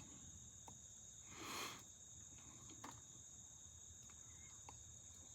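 Crickets trilling steadily in a constant high-pitched chorus. A short soft whoosh rises and falls about a second and a half in, and there are a few faint clicks.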